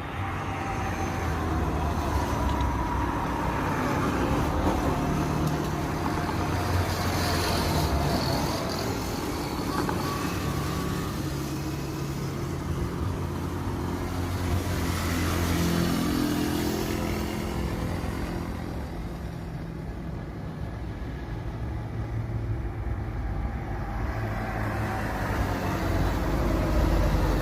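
Jet engine noise from an Airbus A320neo with CFM LEAP-1A turbofans: a steady, loud rush with a faint whine that falls in pitch over the first few seconds, swelling and easing in loudness.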